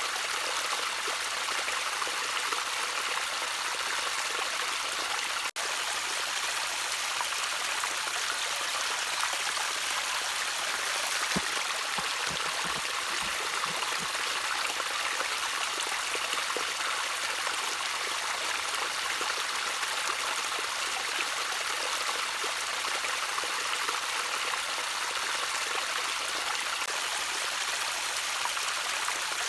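Water trickling steadily over a shallow stream bed, an even rushing hiss with a few deeper plops about twelve to fourteen seconds in. The sound cuts out for an instant about five seconds in.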